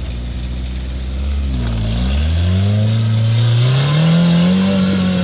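Off-road rock crawler's engine running at low revs, then revving up smoothly over a couple of seconds and holding at higher revs under load.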